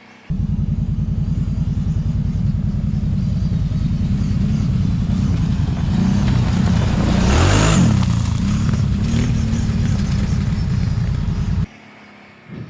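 Kawasaki Brute Force 750 ATV's V-twin engine heard up close, running with a dense, pulsing low rumble. About six seconds in it revs up, then eases back. A rush of noise peaks as the revs climb.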